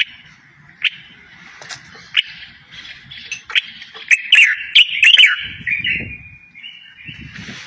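Songbird singing a varied song of chirps and trills, loudest in a rapid run of notes in the middle.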